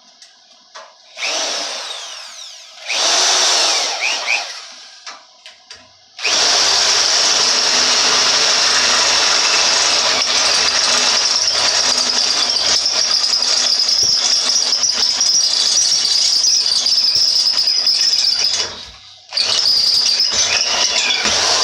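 Large corded power drill drilling through, running under load with a high whine. Two short bursts come first, then a long run of about twelve seconds, a brief stop, and it starts again near the end.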